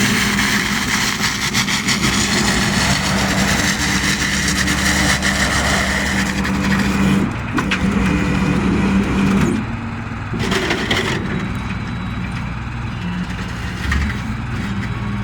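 Tow truck engine running steadily, with a change in its note about seven seconds in and a drop in level about ten seconds in.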